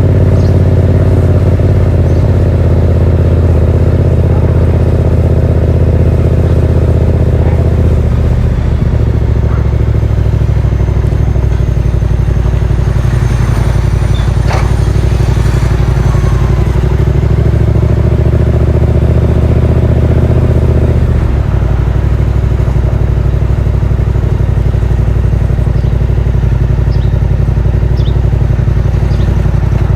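Yamaha MT-07's parallel-twin engine running through a Yoshimura R77 exhaust with its dB killer fitted, loud and steady under way, with the engine note shifting twice, about a quarter of the way in and again about two-thirds through.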